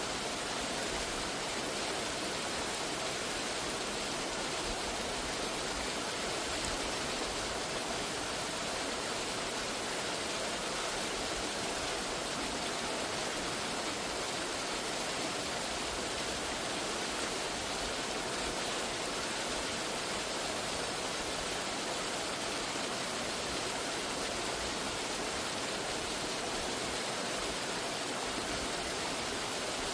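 Steady, unbroken rush of fast-flowing water, as of a waterfall or cascading creek.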